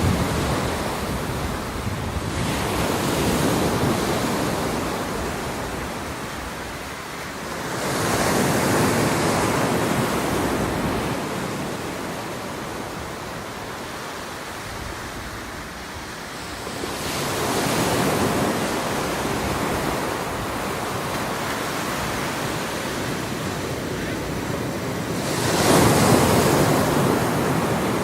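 Ocean surf: waves breaking and washing in, with a steady wash that swells up four times, each surge lasting a couple of seconds.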